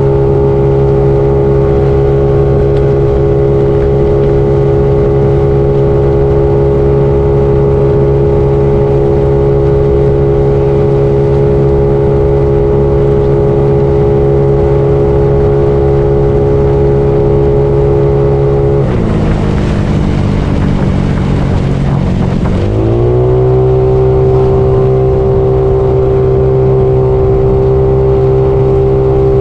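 Bored-up Yamaha Mio scooter's single-cylinder engine running at a steady cruising speed. About two-thirds of the way through, the throttle eases off and the engine note drops for a few seconds, with more rushing noise, then rises again as it pulls back up to cruising speed.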